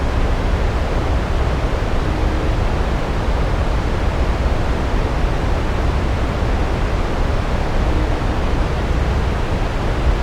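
Floodwater rushing in a steady, loud wash of noise with a heavy low rumble.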